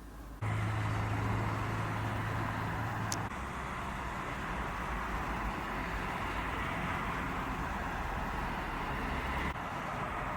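Tram and street traffic running steadily, a broad rumble and hiss of wheels on rails, with a low hum for the first few seconds and a brief high squeal about three seconds in. The sound starts suddenly about half a second in.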